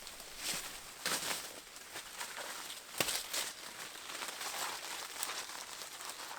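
Brush and bracken rustling and crackling in irregular bursts as overgrown vegetation is pulled and cleared by hand, with one sharp crack about three seconds in.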